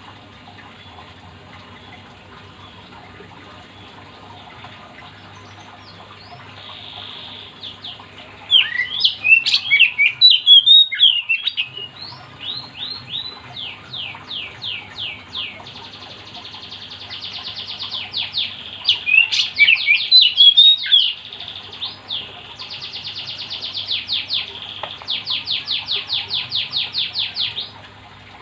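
Oriental magpie-robin singing loud, varied whistled phrases with fast runs of repeated sweeping notes. The song starts about eight seconds in and is loudest in two bursts, around ten and twenty seconds in. A steady low hum lies underneath.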